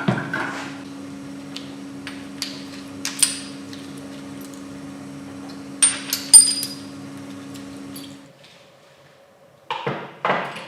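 Sharp metal knocks and clinks of hand tools on metal motorcycle engine parts, loudest about six seconds in, over a steady machine hum that cuts off about eight seconds in.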